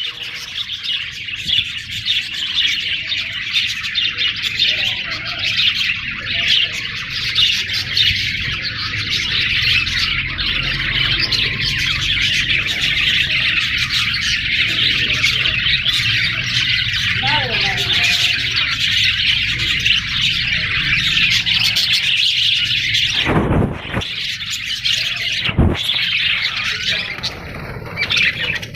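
Parrots chattering and chirping without pause, a dense high-pitched twittering that drops out briefly twice near the end.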